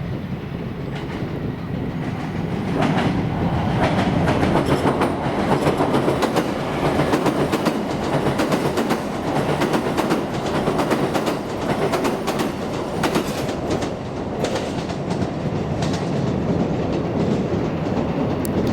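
Train passing over a railway bridge, its wheels clattering over rail joints in rapid, continuous clicks; the sound swells a few seconds in, stays loud, and cuts off abruptly at the end.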